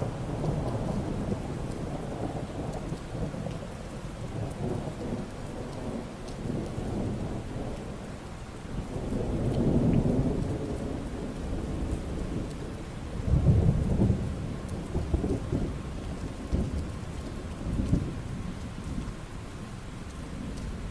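Steady rain falling, with thunder: a long rolling rumble swells up about halfway through, then a few shorter, sharper rumbles follow in the second half.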